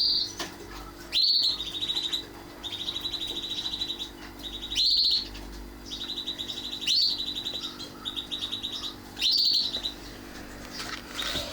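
Canary giving repeated high, sharp calls every couple of seconds, each followed by a rapid buzzy trill of peeps. A faint steady low hum runs underneath.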